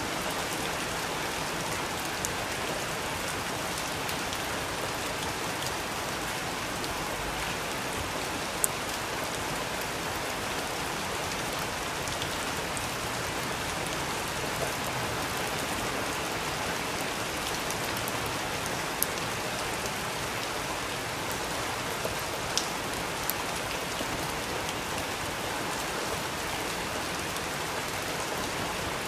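Steady rain falling, an even hiss, with a few sharp ticks now and then.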